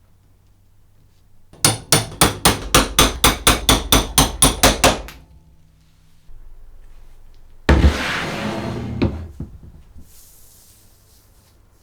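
A hammer tapping fast and evenly, about fourteen strikes at roughly four a second, each with a metallic ring. About eight seconds in comes one louder knock, followed by a short clatter and rattle.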